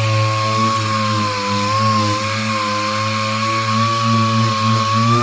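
Handheld power tool running continuously with a steady whine whose pitch sags slightly now and then, used to grind rust off the car's sheet metal.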